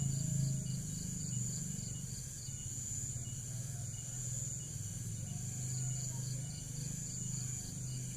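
Crickets or other insects chirping: a steady high-pitched drone with a quick, regular chirp at about three a second, over a low steady hum.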